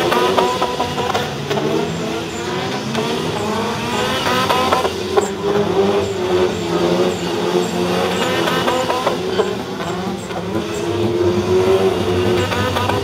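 Car engine revving up and down repeatedly while a car drifts on wet tarmac, with a sharp crack about five seconds in.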